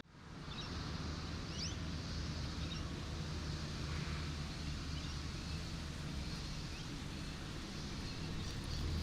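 Steady outdoor ambience: an even rumble and hiss that fades in at the start, with a few short, high bird chirps in the first couple of seconds.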